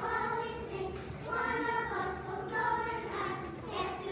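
A group of children singing together, holding notes and moving from pitch to pitch.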